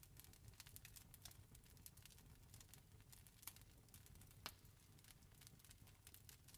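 Wood fire crackling faintly: irregular small snaps and pops, with two sharper pops about three and a half and four and a half seconds in, over a soft low rumble.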